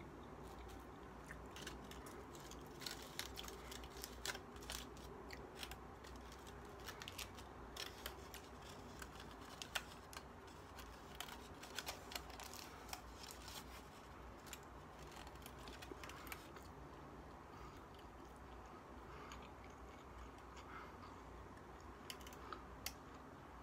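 Close-up chewing and biting of a foil-wrapped chicken burrito: a run of small wet mouth clicks and crackles, densest through the first two-thirds, then sparser, quieter chewing.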